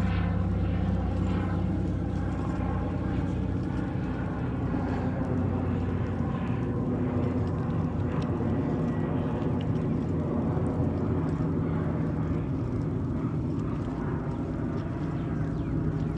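Steady low engine drone from a distant vehicle or aircraft, holding an even level throughout.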